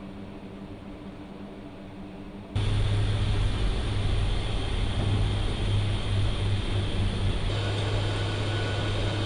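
Steady engine drone heard inside a C-130 Hercules turboprop aircraft, low and humming, which jumps abruptly much louder into a dense rumble about two and a half seconds in.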